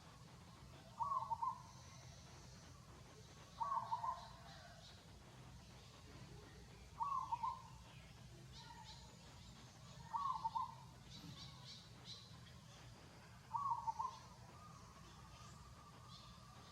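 A bird calling five times, one short call about every three seconds, with fainter high chirps from other small birds in between over a steady low hum.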